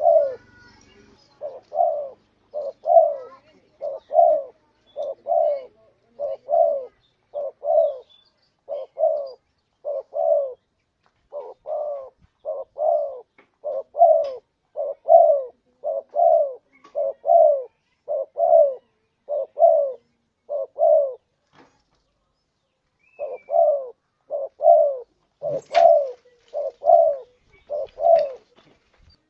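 Spotted dove (tekukur) cooing over and over, a 'kuk dua' style song of repeated short coos with a brief pause about three-quarters through, used as a lure call to draw in other doves.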